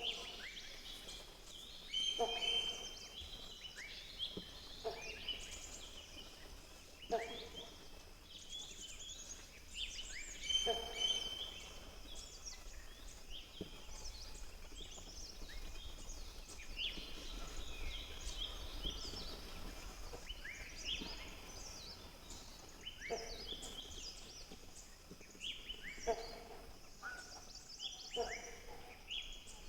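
Wild birds calling and singing in chorus: many short, rising, high-pitched chirps overlap, with a louder fuller call every few seconds, over a faint steady high hum.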